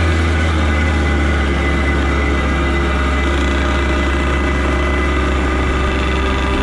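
Motorcycle engine running steadily while riding, with a loud low rumble underneath. The engine pitch rises slowly near the end.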